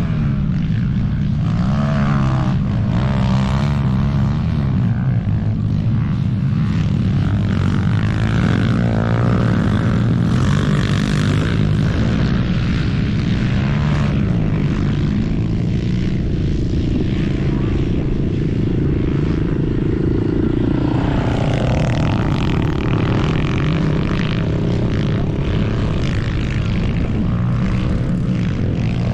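Pit bike's small engine running hard during a race, a continuous drone whose pitch wavers up and down with the throttle.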